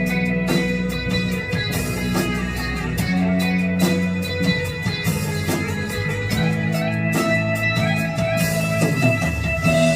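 Guitar-led instrumental music with sustained low notes, the intro of the song at a practice run-through before the vocals come in.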